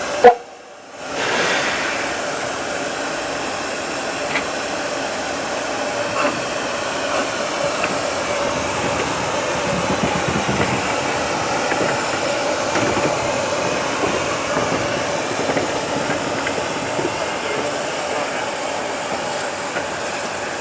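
Narrow-gauge steam train running along the line, a steady rushing noise with a few faint clicks. A sharp loud knock comes right at the start, followed by about a second's dropout.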